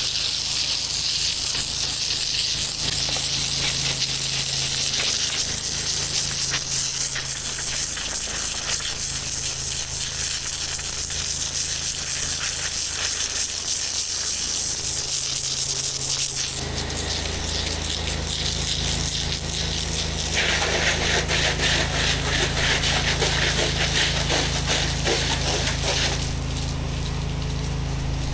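Pressure washer engine running steadily under the hiss of a high-pressure water spray. About sixteen seconds in the engine sound grows louder, and from about twenty to twenty-six seconds the spray grows louder and fuller.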